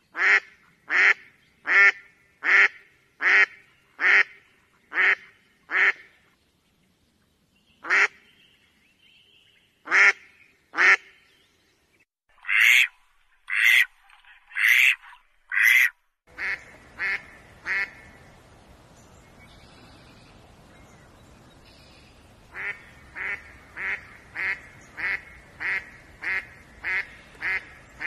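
Philippine duck quacking. A quick, even run of about eight loud quacks opens, followed by scattered single quacks and a few longer quacks. Then, with a steady hiss behind, after a short pause a fast, even series of about two quacks a second runs to the end.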